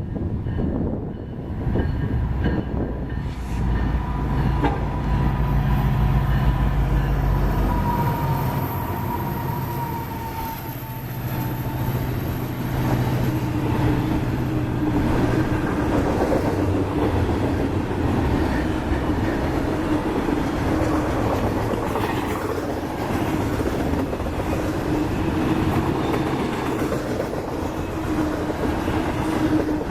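Union Pacific freight train passing, led by three EMD diesel locomotives (an SD70AH and two SD70Ms). Their diesel engines give a heavy low rumble for the first several seconds, then the freight cars roll by with a steady wheel-on-rail clatter and rumble.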